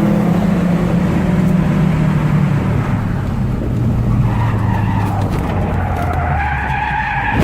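A car's engine runs loud over tyre noise, its pitch falling. From about four seconds in, the tyres squeal in a rising skid as the car loses grip.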